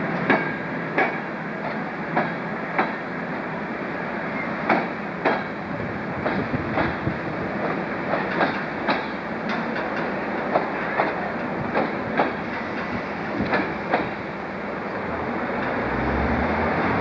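Train of passenger coaches rolling past on electrified main-line track, its wheels clicking over rail joints, often in quick pairs as each bogie crosses, over a steady rolling rumble.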